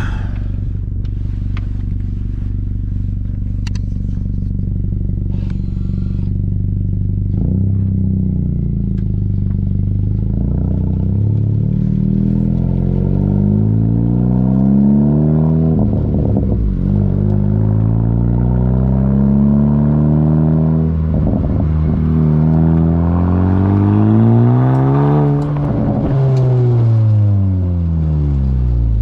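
2017 Honda Civic Si's turbocharged 1.5-litre four-cylinder through a MAPerformance race catback and front pipe, idling steadily, then its pitch climbing in long pulls with two sudden drops, as when accelerating up through the gears, before falling away near the end.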